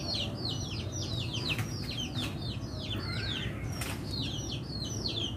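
A bird chirping fast and without a break: a run of short, high chirps, each sliding down in pitch, about three or four a second, with a few faint clicks among them.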